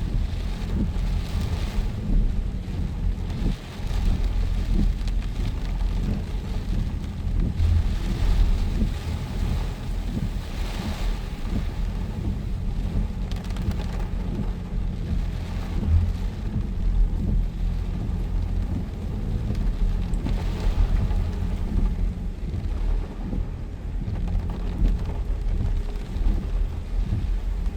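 Heavy rain falling in a wind storm, a dense steady hiss that swells and eases several times over a constant low rumble of wind on the microphone.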